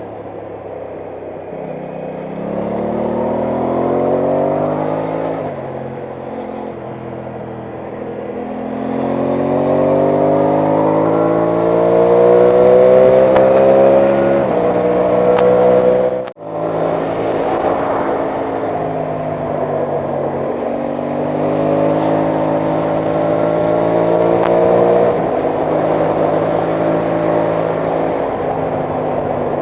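Aprilia Tuono 660's parallel-twin engine riding on. It revs up three times, rising in pitch and then dropping at each upshift, with steady cruising between. The sound cuts out for an instant just past halfway.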